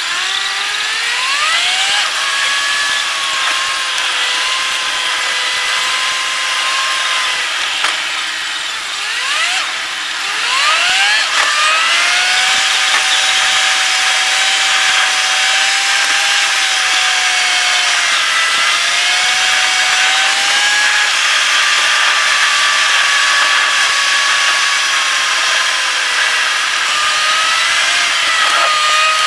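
Car engine heard from inside the moving car, revving up with its pitch climbing twice, about a second in and around ten seconds in, then running at a fairly steady pitch over road and tyre noise.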